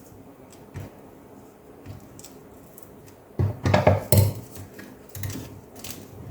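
Hands working on an opened laptop: faint clicks and taps of small hard parts, then a louder stretch of knocking and rattling about three and a half seconds in.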